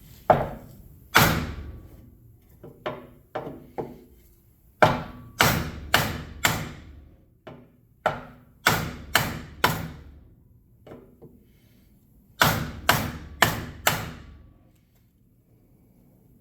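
Hammer blows struck through a wooden block against a heated cast aluminium motorcycle rim, in quick groups of three or four heavy thuds with a few lighter taps between, the metal being worked as it resists moving.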